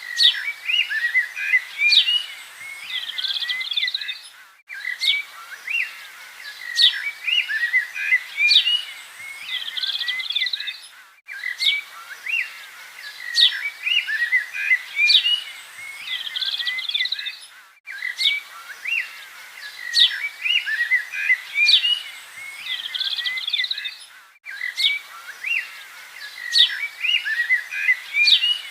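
Several birds chirping and calling with short high notes and trills. The same few seconds of birdsong repeat about every six and a half seconds, with a brief dip at each join, as a looped recording does.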